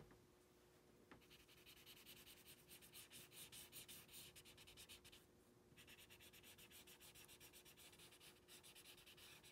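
Felt-tip marker scribbling on paper as an area is coloured in, faint rapid back-and-forth strokes. It starts about a second in and pauses briefly a little past halfway before carrying on.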